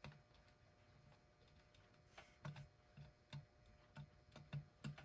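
Faint, irregular light clicks and taps of small metal parts being handled as the little retaining nut is put back on the clock's hand shaft, with a soft rustle about two seconds in.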